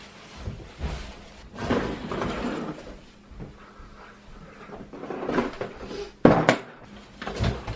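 Things being handled and moved about: rustling and scraping, with several knocks, the sharpest about six and a half seconds in.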